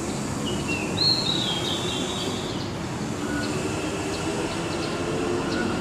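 A bird's thin, high whistling call, stepping down in pitch, lasting about two seconds starting just after the beginning, over a steady low rumbling background noise.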